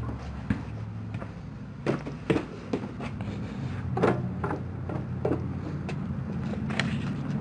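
A series of short, irregular knocks and clunks, about eight over several seconds, over a steady low hum.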